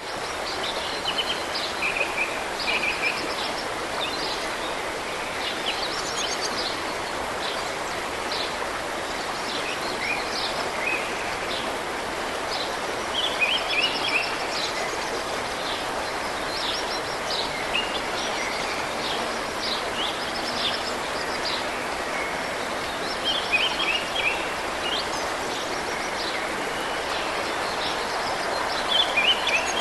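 Mountain river water rushing steadily, with small birds singing short, repeated chirping phrases over it.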